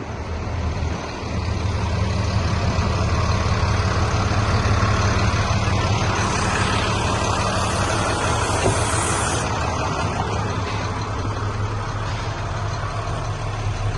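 International 4300 bucket truck's diesel engine running steadily, with a high hiss of about three seconds midway.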